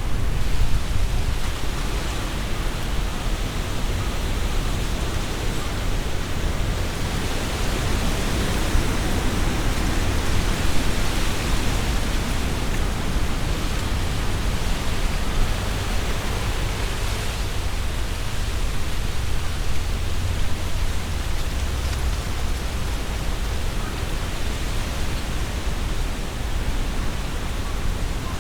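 Strong wind blowing through trees, the leaves rustling and hissing in swelling gusts over a steady low wind rumble.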